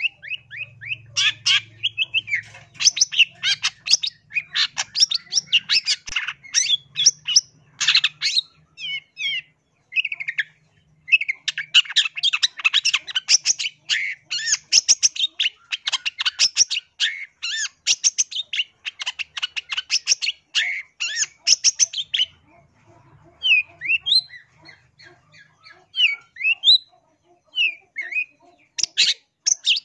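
Long-tailed shrike (cendet) singing: long runs of rapid chattering notes that jump about in pitch, broken by a short pause about ten seconds in, then sparser separate calls in the last several seconds.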